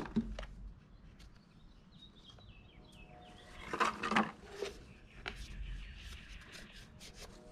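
Light clicks and a short rustle, loudest about four seconds in, from the lawn mower's air filter and plastic filter cover being handled and fitted. A few faint high chirps come just before the rustle.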